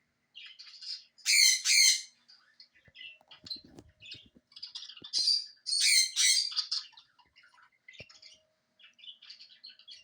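Pet parrot screaming in loud, shrill squawks, about a second and a half in and again around six seconds, with quieter bird chirps scattered between. The parrot is calling back to recorded bird sounds.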